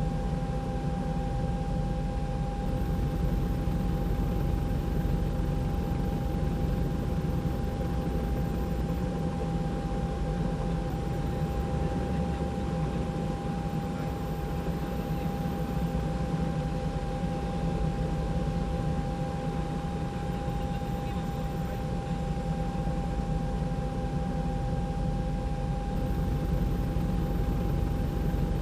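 Steady helicopter noise heard from on board: an even low rumble and rushing noise with a constant whine through it.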